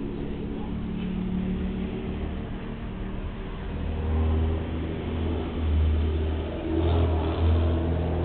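A motor vehicle engine running, its pitch shifting slightly, with a deep rumble that swells in bursts from about four seconds in.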